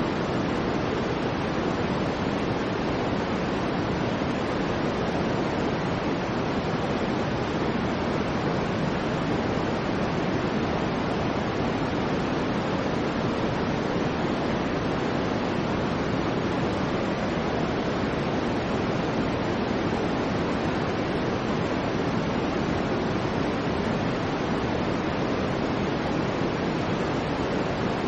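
Soft white noise for baby sleep: a steady, even rush with no tones or changes. It sits more in the lower range than a bright hiss.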